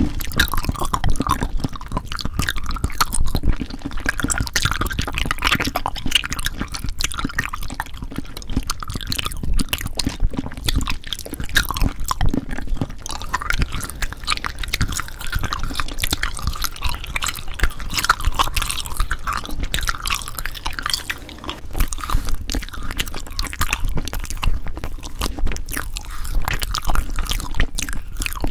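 Close-miked ASMR trigger sounds: a continuous run of small wet clicks, crackles and squishes.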